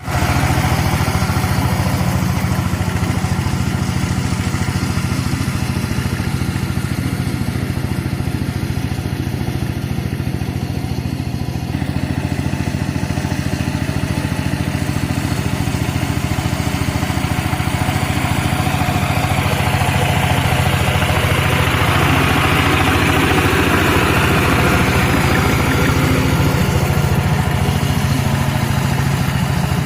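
Mini tractor engine running steadily, with a rougher noise added for several seconds in the second half.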